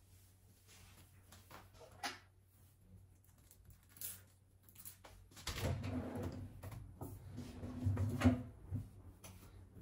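Household objects being handled: scattered clicks and knocks, busier and louder in the second half with a sharp knock near the end, over a faint steady low hum.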